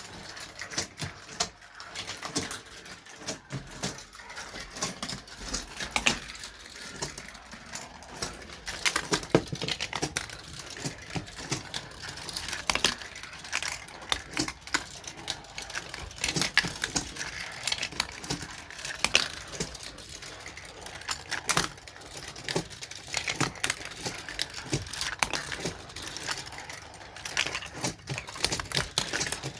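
Marbles rolling and clattering through a Gravitrax plastic marble run: an irregular stream of small clicks and knocks, some sharper than others.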